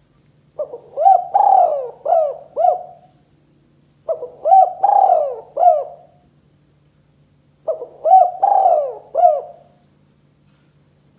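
Spotted dove (tekukur) cooing in its two-'kuk' song type. It gives three phrases about three and a half seconds apart, each a run of four or five short, arched coos.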